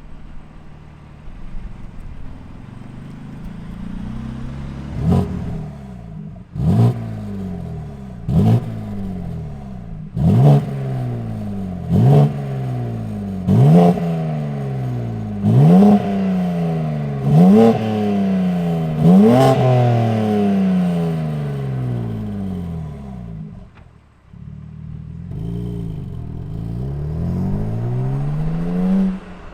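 BMW G82 M4's twin-turbo 3.0-litre inline-six revving through the exhaust with its valves held fully open by an IRL V2 valve controller. There are nine quick throttle blips about two seconds apart, each snapping up and falling away. Near the end a longer, steadily rising run of revs cuts off suddenly.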